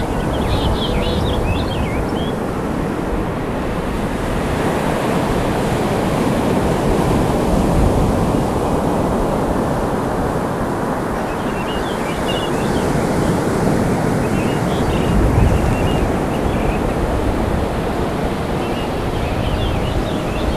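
Ocean surf washing steadily on a beach, swelling and easing, with wind buffeting the microphone. Short high calls come in briefly near the start and again in the second half.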